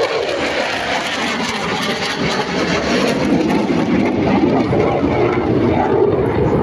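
Loud, steady jet noise of a JAS 39 Gripen fighter flying past under its single jet engine.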